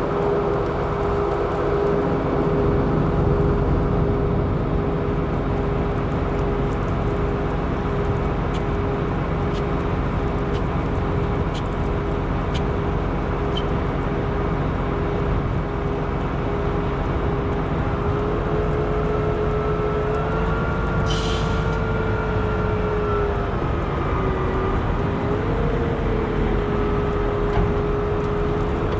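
Cat 972M XE wheel loader's diesel engine and drivetrain running, with a steady whine that rises and falls in pitch two-thirds of the way through as the machine works. A short hiss of air sounds once, about 21 seconds in.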